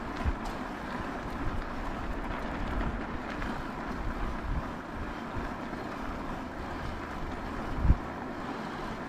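Wind buffeting the microphone and a steady rolling noise while riding an e-bike, with a strong low thump about eight seconds in.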